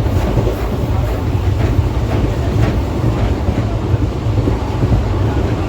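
Passenger train running along the track: a steady low rumble, with a few faint clicks of the wheels over rail joints in the first three seconds.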